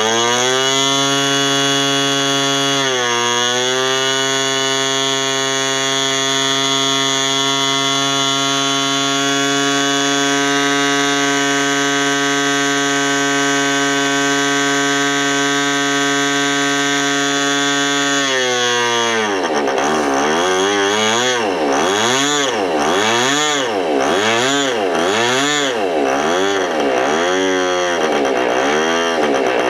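OS .46AX two-stroke nitro glow engine running fast on a steady note, dipping briefly about three seconds in, then from about two-thirds of the way through surging up and down roughly once a second. The engine runs unevenly after sitting for years, which the owner puts down to old fuel blocking a port, with the needle valve not responding to adjustment.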